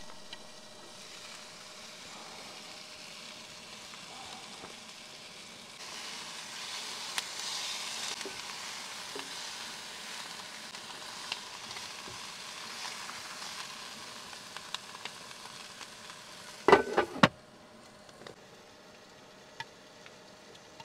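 Meat and peppers sizzling in an electric skillet. The sizzle grows louder about six seconds in as the lid comes off, with small clicks of a fork turning the food. Near the end a few loud clatters sound as the glass lid goes back on, and the sizzling becomes muffled.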